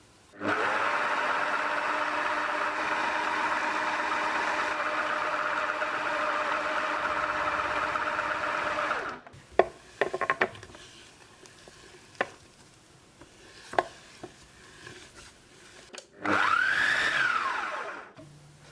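Magimix food processor motor spins up and runs steadily for about eight seconds, then stops. A few sharp clicks and knocks follow, then a short run of about two seconds whose pitch rises and falls.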